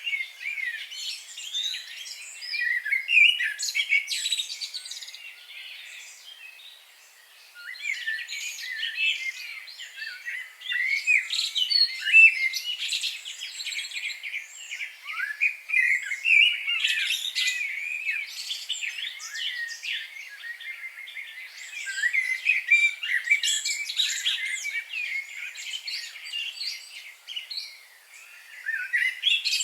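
Several birds chirping and singing at once, a dense chorus of quick high notes and trills, with a brief lull about seven seconds in.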